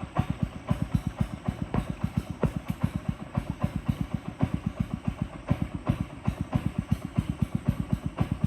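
Boat engine running steadily with a rapid, even low thudding, about seven beats a second.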